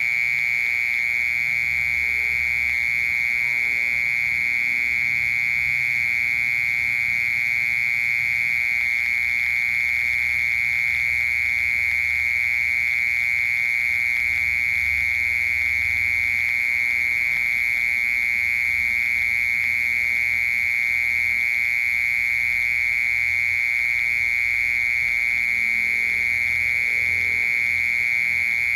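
Cricket singing one continuous, unbroken high-pitched trill at a steady level.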